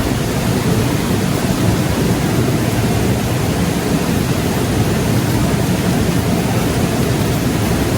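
Steady loud rushing noise, even throughout, heaviest in the low range.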